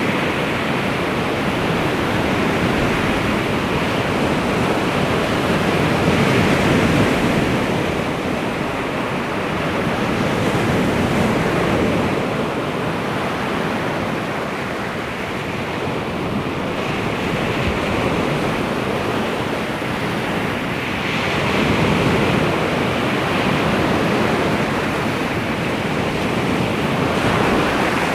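Baltic Sea waves breaking and washing on the shore, a steady surf that swells and eases every few seconds.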